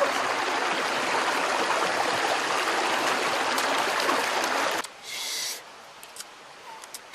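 River water rushing in a steady wash, which cuts off suddenly about two-thirds of the way through, leaving a quieter stretch with a brief high hiss and a few faint clicks.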